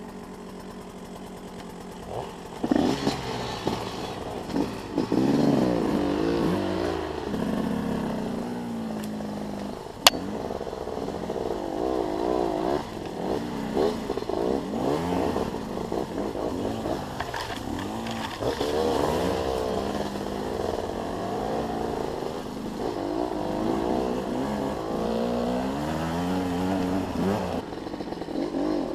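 Two-stroke enduro motorcycle engines running low and steady at first, then revving up and down over and over at trail-riding speed. One sharp knock about a third of the way through.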